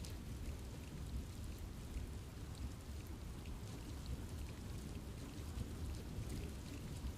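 Steady rain falling in a forest, a low even rush with many individual drops ticking on leaves and branches.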